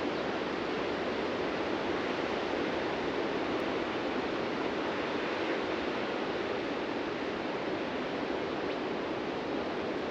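Ocean surf: a steady, continuous wash of waves breaking on the shore.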